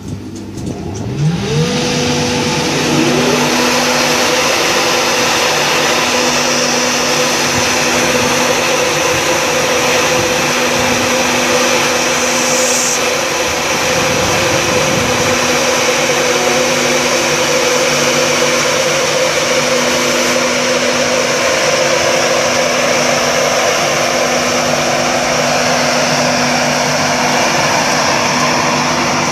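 A train powering up at close range. A whine rises in pitch over the first couple of seconds, then settles into a loud, steady drone of engine or traction noise that lasts to the end.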